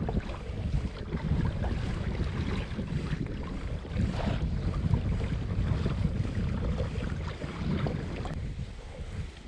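Wind rumbling and buffeting on the microphone over the sound of water against a kayak's hull, easing off near the end.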